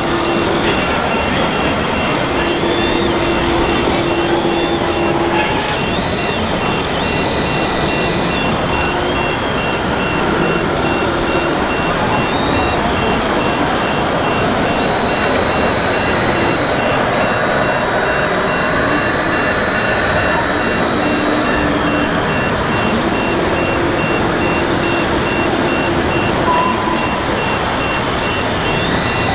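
1/14-scale radio-controlled construction models working: motors and gears whine, rising and falling in pitch, over a steady rattle, while a reversing beeper beeps at an even pace.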